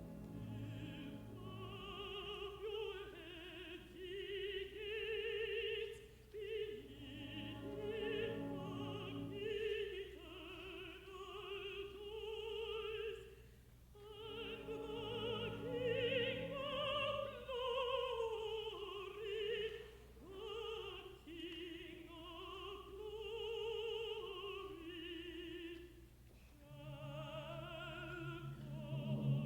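A contralto sings slow phrases with wide vibrato over a quiet, sustained orchestral accompaniment, pausing briefly between phrases.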